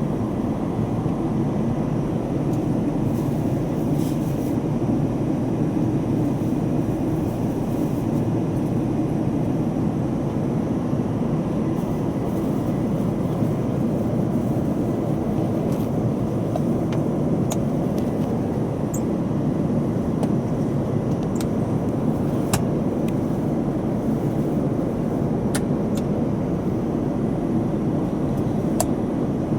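Steady rumble of a moving vehicle heard from inside its cabin, with a few faint ticks.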